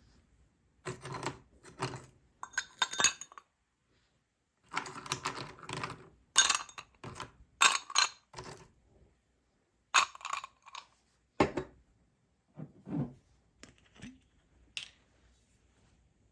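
Short bursts of clinking and clattering of small hard objects, like dishes or utensils being handled, each cut off abruptly by stretches of dead silence.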